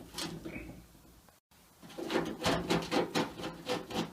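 Socket and ratchet turning out a rusted screw from a washing machine's steel front panel: a run of short, rapid clicks, about four or five a second, as the loosened screw is worked free. The sound cuts out briefly before the clicking starts.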